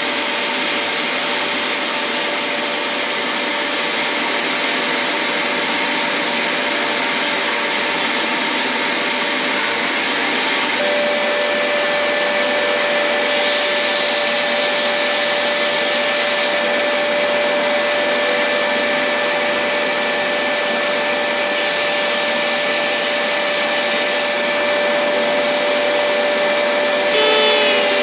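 Electric woodworking saw running steadily with a loud whooshing motor noise and a constant high whine; a second steady tone joins about a third of the way in, and near the end the pitch starts to fall as the machine begins to wind down.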